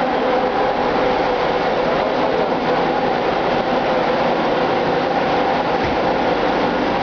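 Ship's engine-room machinery running: a loud, steady din with a constant hum.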